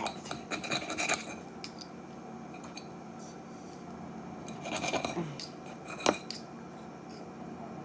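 Knife and fork clinking and scraping against a dish while cooked chicken tenders are sliced into strips, in scattered taps with a sharper click about six seconds in, over a steady low hum.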